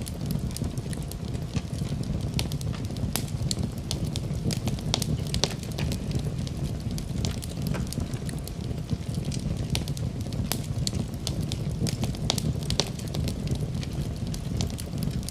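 Wood fire in a fireplace crackling, with many sharp pops at irregular intervals over a steady low rumble of the flames.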